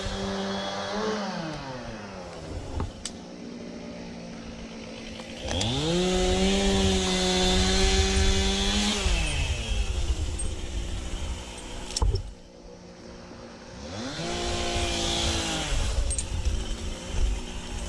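A two-stroke chainsaw revved up to full speed and back down to idle three times, the longest rev lasting about four seconds in the middle. A single sharp crack comes between the second and third revs.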